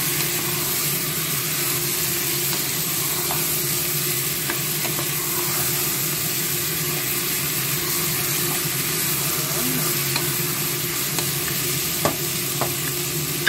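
Chicken pieces sizzling steadily as they fry in a nonstick pan, stirred with a wooden spatula that scrapes and knocks against the pan now and then, once more sharply about twelve seconds in.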